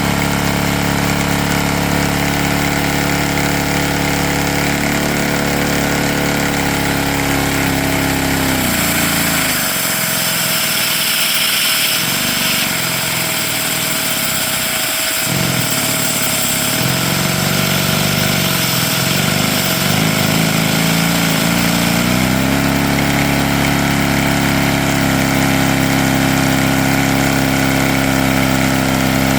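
Lego inline-two long-stroke vacuum engine running flat out on vacuum suction, with no throttle body or flywheel fitted. The steady hum sags and wavers in pitch several times in the middle before settling back steady near the end.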